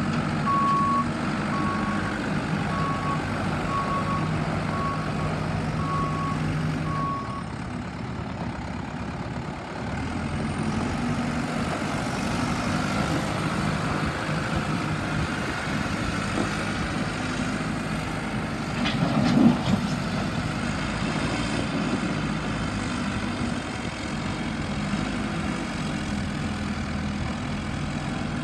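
New Holland LB110 backhoe loader's diesel engine running steadily, with its reverse alarm beeping about every three-quarters of a second for the first seven seconds before it stops. A short, louder clatter comes about two-thirds of the way through.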